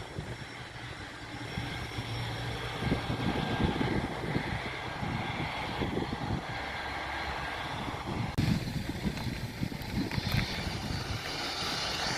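Aircraft engine noise at an airport, with a gusty low rumble of wind on the microphone. A high whine grows louder over the last few seconds.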